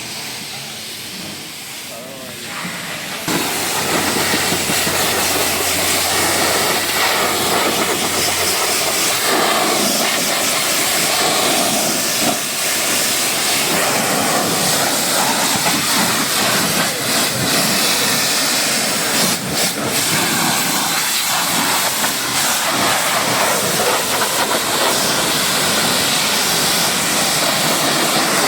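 High-pressure car-wash water spray hissing steadily, growing louder about three seconds in.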